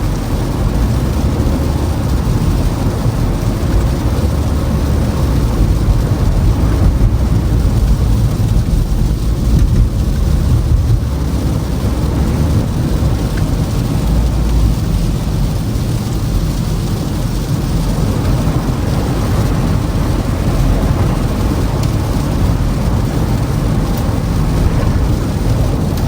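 Toyota Camry driving on a snowy, icy road: a steady low rumble of tyre and road noise.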